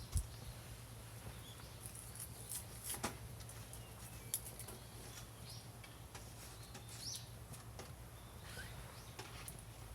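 Small wood fire crackling, with scattered sharp pops and ticks over a steady low hum, and a few faint bird chirps in the background.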